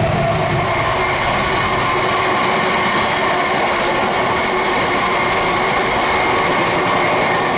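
Wagons of a long freight train rolling past: a steady rush of steel wheels on rail, with thin high squealing tones from the wheels.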